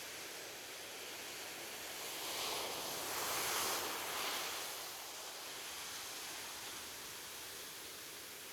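Ocean waves washing on a beach: a steady hiss of surf, with one wave breaking and rushing in louder about two to four seconds in, then easing back.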